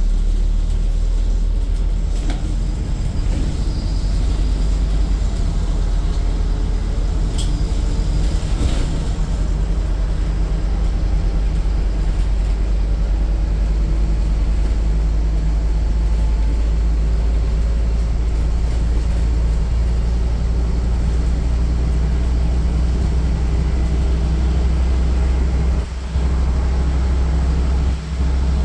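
Scania N230UD double-decker bus's five-cylinder diesel running, heard from inside the cabin as a steady low drone, with a few short clicks in the first nine seconds and two brief dips in the rumble near the end.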